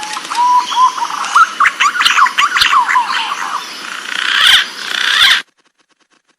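Green pigeon (punai) song recording used as a trapping lure: drawn-out whistles gliding upward, then a quick run of warbling whistled notes. The sound cuts off suddenly about five and a half seconds in.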